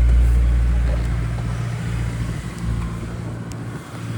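Car engine idling steadily while still warming up after a cold start, a low, even hum. The hum fades and drops in level through the second half and swells again at the very end.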